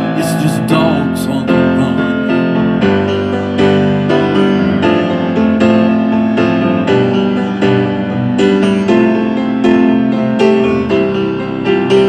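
Piano playing an instrumental passage of a rock song, chords changing about every second.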